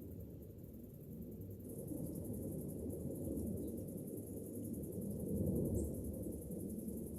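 Cicadas buzzing in a high, rapidly pulsing drone that grows louder about two seconds in, over a steady low rumble.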